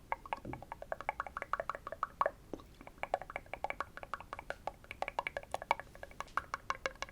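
Rapid, uneven ASMR tapping on a hard object, several taps a second, each tap giving a short ringing pitch.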